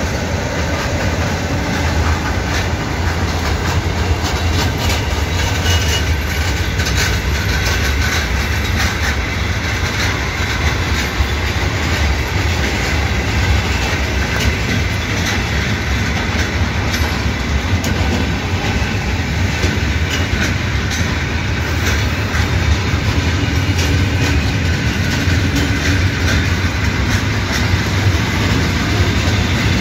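Freight train of log-laden timber wagons rolling past: a steady rumble of wheels on the rails with frequent sharp wheel clicks.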